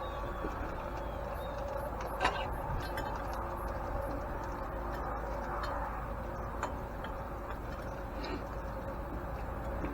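A steady hum with a few light clicks and knocks, the sharpest about two seconds in.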